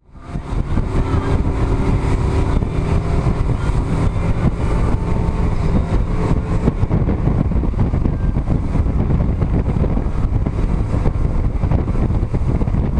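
Motorboat engine running steadily under way, with wind buffeting the microphone; the sound fades in over the first half second.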